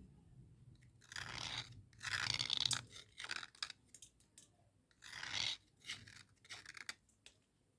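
Dry cubical slate pencils making a series of short, gritty crunching and scraping sounds, about half a dozen irregular bursts, the loudest around two seconds in.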